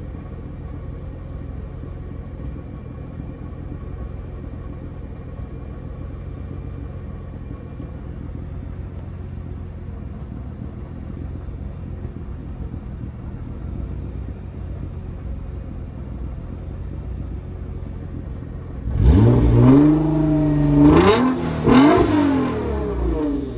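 Nissan GT-R R35's twin-turbo V6 idling steadily, then revved hard about 19 seconds in, climbing in pitch in about three quick surges before dropping back.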